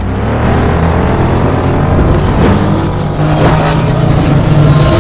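Loud, steady engine-like drone, as of a motor revving, in an intro sound effect. It has no speech, and its pitch steps up about three seconds in.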